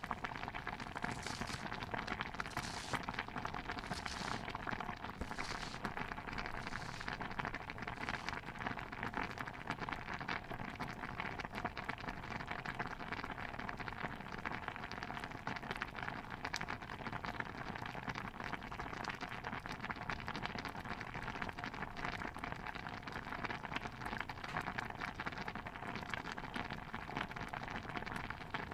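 Stew bubbling in a pot, a dense steady crackle of popping bubbles. In the first several seconds a run of about six short hissing strokes, roughly one every second and a bit, sits on top.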